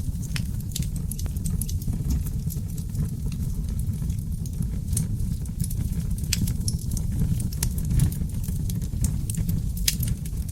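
Wood fire of seasoned oak logs in a fireplace, a steady low rush of flames with frequent sharp crackles and pops.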